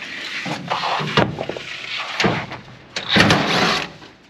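Irregular knocking, rattling and scraping from hand work on the truck's fender fasteners, with a louder rasping stretch about three seconds in.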